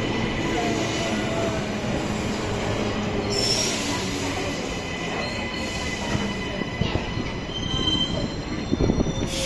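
Queensland Rail NGR electric multiple unit rolling slowly into a station with a steady rumble, and brief high-pitched wheel squeals a couple of times.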